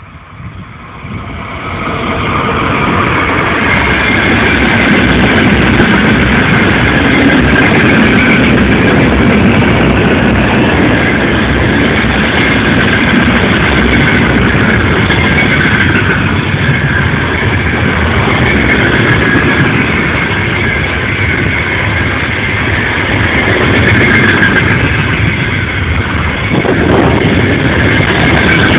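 2ES6 electric freight locomotive and its train running past, the noise swelling over the first two seconds into a steady, loud din of wheels on rail as the wagons roll by.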